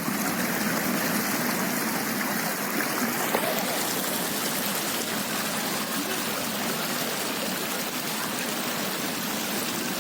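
Floodwater flowing, a steady even rushing of water.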